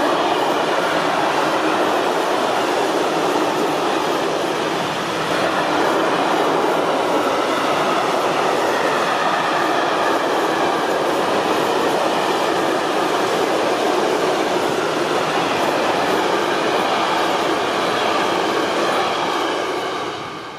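Covered grain hopper wagons of a long freight train rolling past at speed: a steady, loud noise of steel wheels on rails. It drops away about twenty seconds in.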